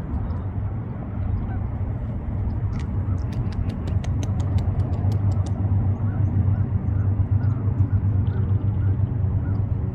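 A beaver gnawing bark off a branch: a quick run of sharp crunching clicks about three seconds in, over a steady low rumble.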